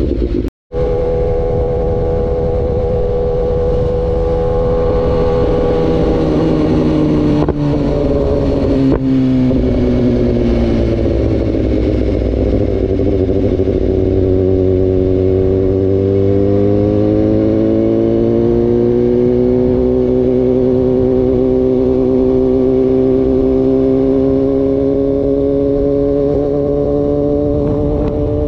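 Sport motorcycle engine running steadily under way; its pitch sinks slowly a few seconds in, then climbs gradually back up through the second half. A brief cut-out comes just after the start.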